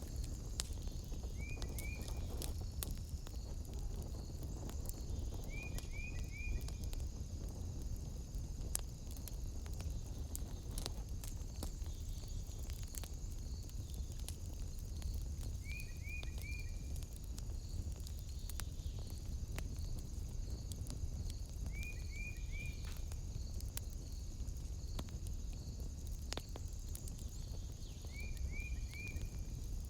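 Wood fire in a fireplace crackling, with frequent sharp pops over a low rumble. Behind it runs a steady high-pitched trill, and a short three-note chirp repeats every five to six seconds.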